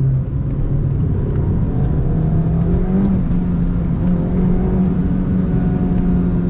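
Mini Clubman John Cooper Works R55's 1.6-litre turbocharged four-cylinder engine, heard from inside the cabin while driving. The engine note dips briefly just after the start, then climbs over about three seconds and holds steady, with road noise underneath.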